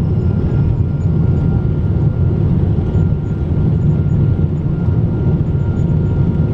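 Steady, loud cabin rumble of a Boeing 777-200 jet airliner: engine noise and airflow heard from a window seat inside the cabin, with a faint steady whine above it.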